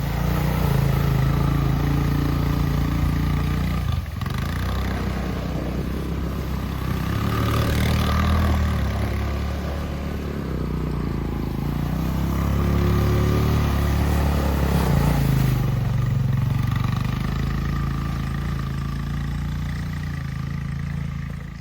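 Four-wheeler (ATV) engine running, revving up and easing off several times as it is ridden.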